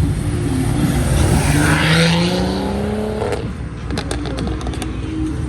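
A modified muscle car's engine accelerating hard, its pitch climbing steadily for about two seconds before the driver lets off sharply. A quick run of sharp cracks follows.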